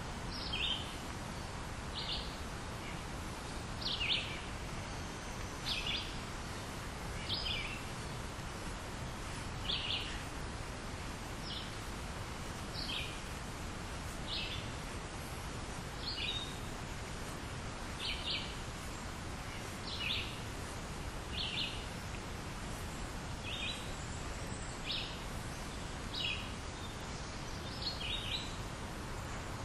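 A bird repeating a short, high call about once every second and a half, over a steady background hiss of outdoor noise.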